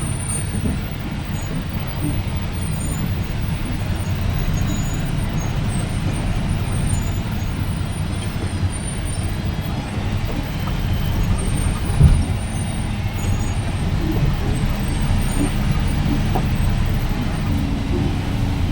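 Truck engine running steadily while driving, a continuous low rumble, with one sharp thump about twelve seconds in.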